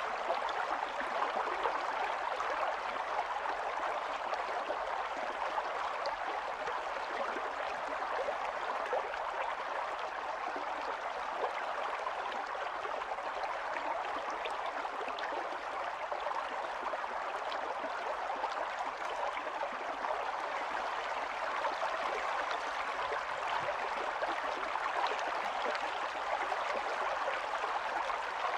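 Small stream running and burbling over stones, a steady rush of water.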